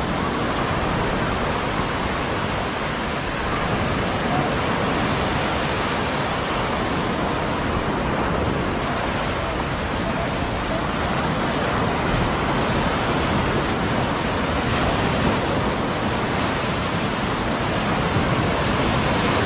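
Sea surf breaking and washing up the beach: a steady, continuous rush of waves.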